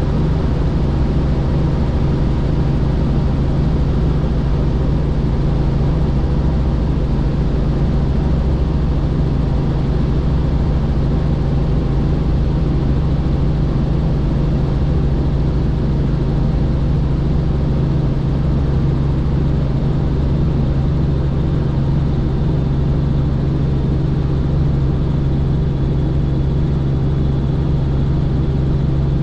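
Helicopter in steady flight: loud, even engine and rotor noise with a strong low hum that does not change.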